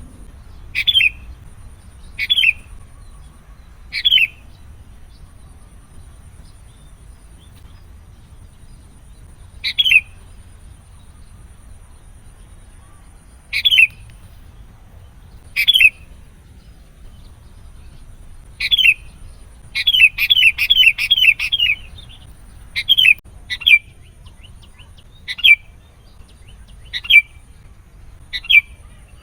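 Sooty-headed bulbul (kutilang) calling: short, sharp chirps every few seconds, breaking into a quick run of about six chirps around twenty seconds in.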